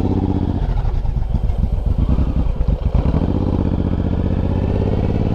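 Suzuki Boulevard M109R's 1800 cc V-twin engine running under way. Its note breaks into uneven low pulses for about two seconds in the middle, then settles back to a steady drone.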